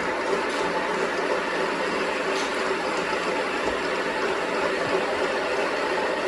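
Workshop machinery running steadily, a constant mechanical hum with a steady tone and no change in speed.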